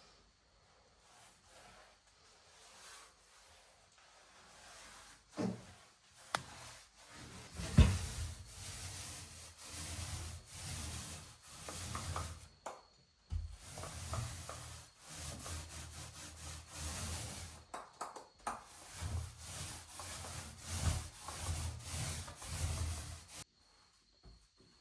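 Hand work rubbing back and forth across a wall surface, in strokes about a second apart, with a sharp knock about eight seconds in.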